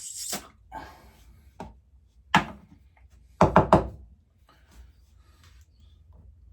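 A short hiss, then sharp knocks of small parts being handled on a hard work surface, with three quick knocks in a row about halfway through.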